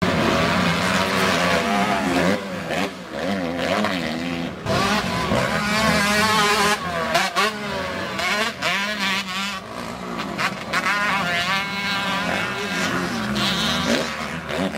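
Several motocross motorcycles' engines revving on the track, their pitches rising and falling and overlapping as the riders accelerate and shift.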